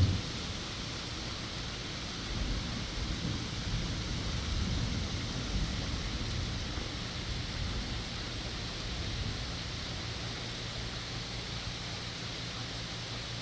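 Steady rain falling, an even hiss, with a low rumble that swells and fades through the first half.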